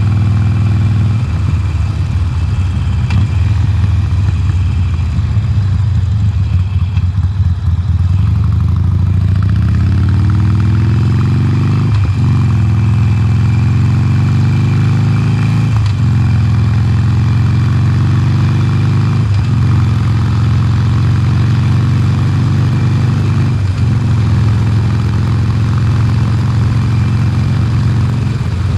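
2020 Harley-Davidson Sportster Forty-Eight's air-cooled V-twin on its stock exhaust, accelerating under way. Its pitch climbs, then drops and climbs again about four times as it shifts up through the gears.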